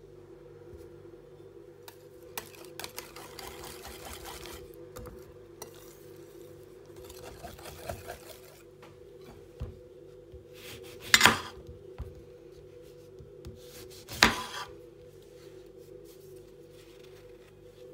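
Kitchen utensil and dish sounds over a steady hum: a stretch of scraping or rubbing, scattered light clinks, then two loud clatters of dishware about three seconds apart.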